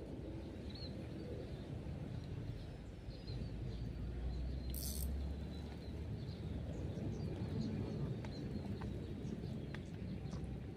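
Outdoor ambience: a steady low rumble with faint, short bird-like chirps and scattered small clicks. A brief hiss comes about five seconds in.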